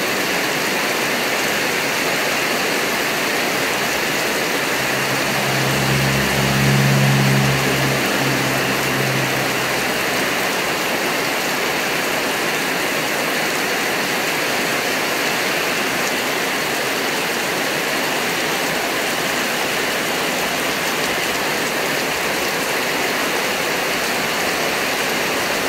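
Heavy rain pouring steadily onto a flooded road and yard, a constant hiss. About five seconds in, the low hum of a passing vehicle's engine swells and fades over about four seconds.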